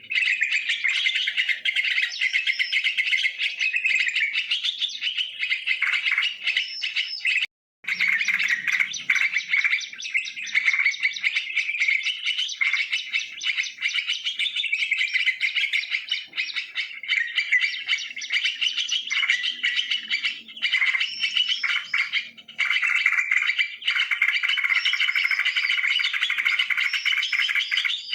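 Yellow-vented bulbul chattering and calling without pause in a dense run of quick notes. The sound cuts out for a moment about seven and a half seconds in.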